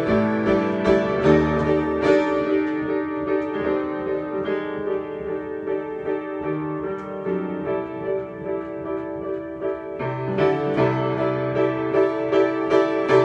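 Solo piano improvisation: repeated mid-register notes over changing bass notes, softer in the middle and louder again near the end.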